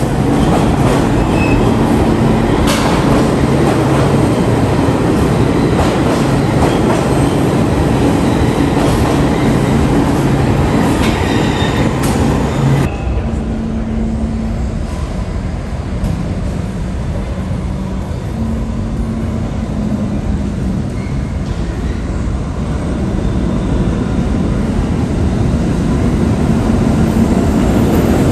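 New York City subway train running through a station: a loud wheel-and-rail rumble with clicks. The hiss and clicking drop off suddenly about halfway through, leaving a lower rumble that builds again near the end.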